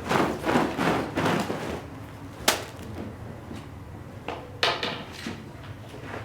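Rhythmic cleaning strokes over a shag rug, about two a second, which die away after about two seconds. A single sharp knock follows, then a short burst of strokes near the end.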